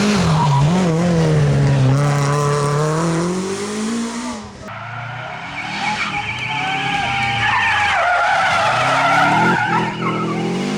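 Rally car engine revving hard, its pitch rising and falling with throttle and gear changes, then tyres squealing through a corner in the second half.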